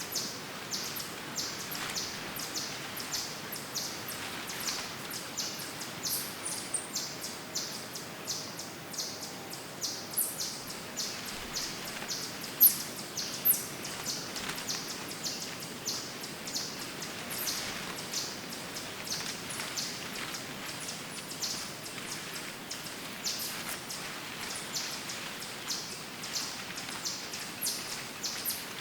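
Woodland birds chirping, short high notes repeated about twice a second over a steady background hiss, with two sharper, louder chirps about halfway through.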